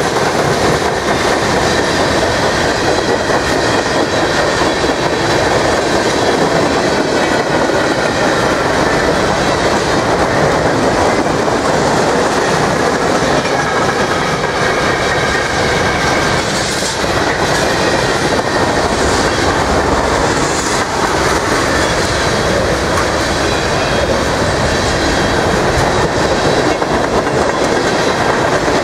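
Freight cars of a mixed manifest train rolling past close by: a loud, steady clatter and rumble of steel wheels on the rails, with clickety-clack over the rail joints.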